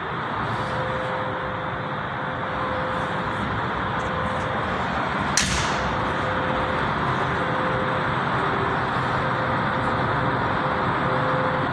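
Steady motor-vehicle running noise, with one sharp crack about five seconds in.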